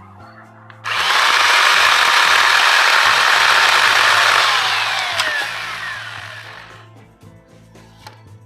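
GreenWorks 10-inch, 6-amp corded electric chainsaw starting abruptly about a second in and running at full speed for about three and a half seconds, then winding down with a falling whine as the motor coasts to a stop.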